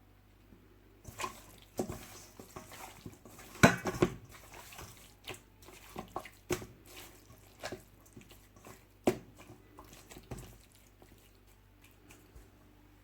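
Wet squelches and irregular clicks of raw, seasoned chicken thighs being handled and turned in a bowl, the loudest a sharp slap about four seconds in, dying away near the end.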